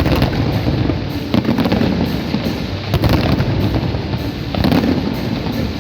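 Aerial fireworks bursting in quick succession, a dense run of bangs and crackle with heavier volleys about every second and a half. Music plays underneath.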